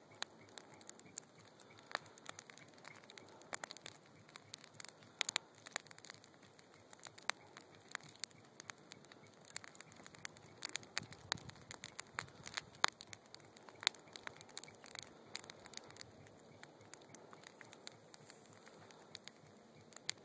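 Wood fire burning in a fire pit, crackling with irregular sharp pops and snaps over a soft hiss.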